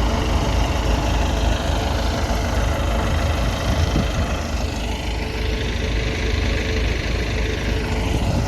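Tractor engine running steadily, with a strong low rumble and a faint steady whine.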